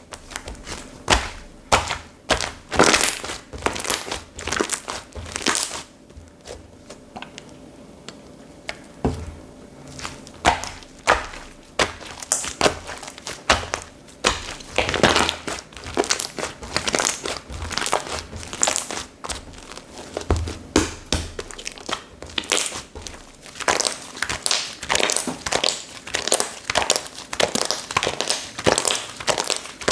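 Slime being squished, stretched and pressed by hand, giving irregular wet clicks and pops. There is a quieter lull about a quarter of the way in.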